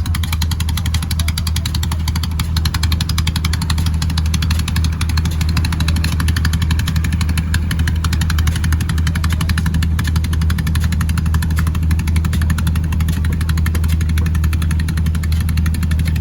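Fishing boat's engine running steadily at constant speed, a deep hum with a fast, even beat.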